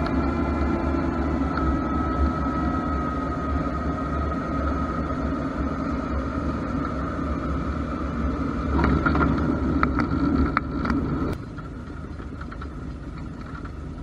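Cessna 172's piston engine running steadily at low power, heard inside the cabin, with a few sharp clicks about nine to eleven seconds in. The sound drops sharply about eleven seconds in, leaving a quieter hum.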